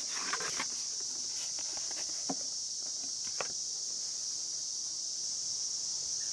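Steady high-pitched chirring of night insects, with a few light clicks and knocks in the first few seconds.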